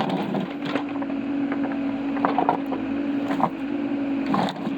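Excavator's diesel engine running steadily under load, with a few sharp knocks and scrapes as the bucket works through frozen ground.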